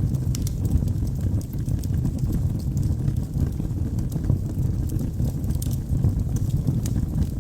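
Log fire burning in a fireplace: a steady low rumble of flames with scattered small crackles and pops from the burning wood.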